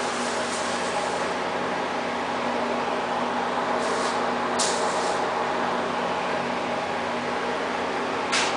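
CNC plasma cutting machine running with a steady hum, with short bursts of air hiss about four seconds in, again half a second later, and near the end.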